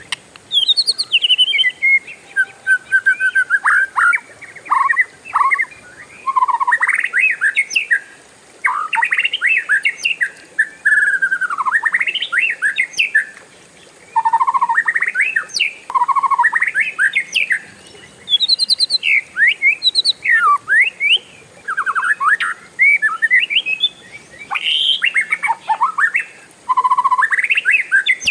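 Oriental magpie-robin (kacer) singing a long, varied song of whistled phrases that glide up and down in pitch, coming in bursts of a second or two with short pauses between them.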